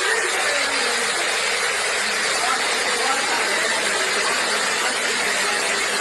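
A steady rushing noise with no clear separate events, with faint voices underneath.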